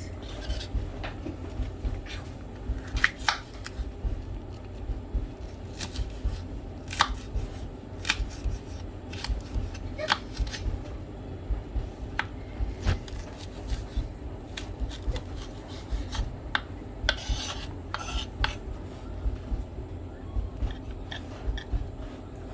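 A kitchen knife cutting onions on a chopping board: irregular, unhurried knocks of the blade against the board, over a low steady hum.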